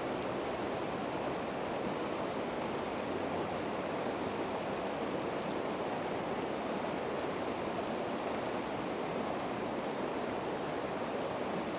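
Steady rushing of a river, with a few faint, sharp crackles from a campfire of split evergreen wood.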